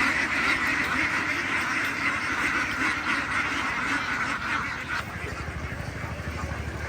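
A large flock of farm ducks quacking together in a dense, continuous chorus that thins out about five seconds in. As it fades, a low, pulsing motor rumble comes in.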